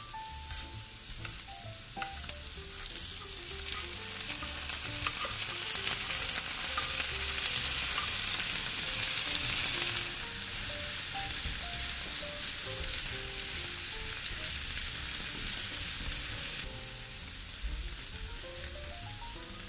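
Red onions and canned tuna sizzling in a hot nonstick frying pan while being stirred with a silicone spatula. The sizzle swells a few seconds in, is loudest for several seconds, then drops back about halfway through and again near the end.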